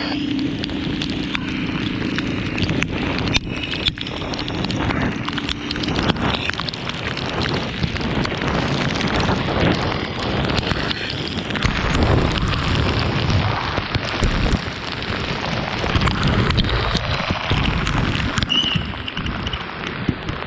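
Wind buffeting the microphone and rain noise on a motorcycle ride in the rain, a rough rushing with crackles. A steady low hum shows in the first few seconds.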